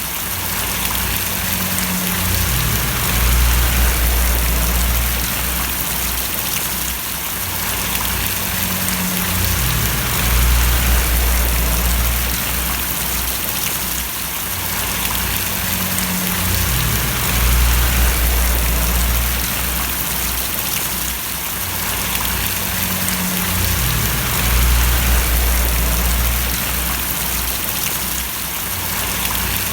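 Steady rain hiss, drops splashing on a surface. Under it, a deep low rumble swells and fades about every seven seconds.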